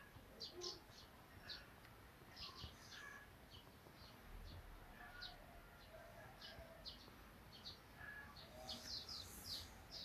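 Faint bird chirping: many short, high chirps at irregular intervals with a few lower calls among them, busiest near the end.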